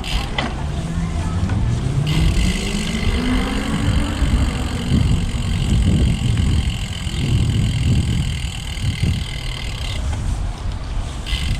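Riding a road bike: wind rumbles on the microphone with tyre noise. From about two seconds in, a steady high buzz runs for roughly eight seconds; it fits the rear hub's freewheel ratcheting while coasting, and it stops when pedalling resumes. A pitched hum rises over the first few seconds and then falls away.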